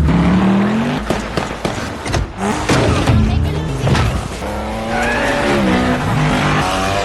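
Movie car-chase sound effects: car engines revving up and down with tyres squealing, several sharp hits about one to four seconds in, over a music score.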